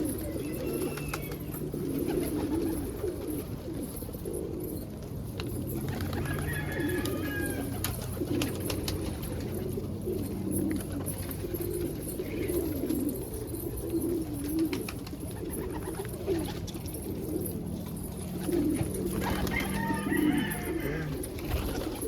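A flock of domestic pigeons cooing continuously, many overlapping low coos, with a few higher-pitched calls about six seconds in and again near the end.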